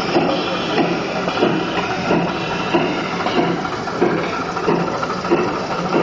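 Steam locomotive hissing steam, with a soft regular chuff about one and a half times a second.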